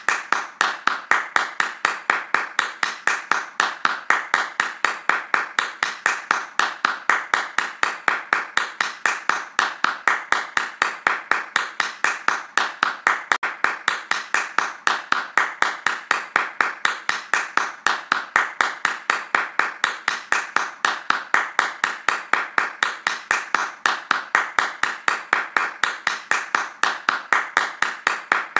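Hands clapping fast in a steady, even rhythm, each clap a sharp crack.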